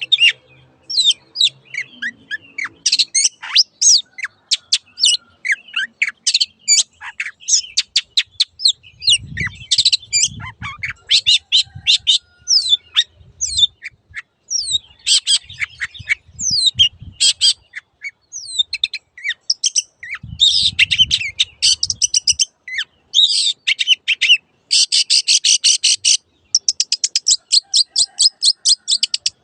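Long-tailed shrike singing a rapid, varied song of sharp chirps and whistled glides, ending in fast runs of rapidly repeated notes.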